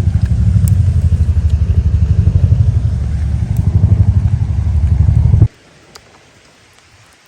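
A loud, low engine-like rumble with a fast, even pulse that cuts off abruptly about five and a half seconds in.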